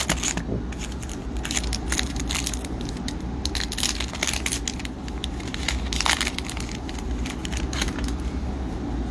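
Trading cards and foil pack wrappers being handled: a run of irregular clicks and crinkling over a steady low hum.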